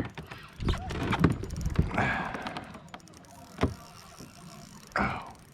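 Handling noise aboard a fishing kayak while fighting a fish: a few scattered knocks and rubbing rustles from rod, reel and gear against the boat.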